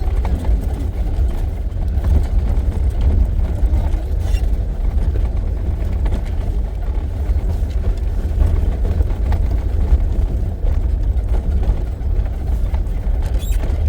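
Safari vehicle driving along a forest track: a steady, low engine and road rumble with no let-up.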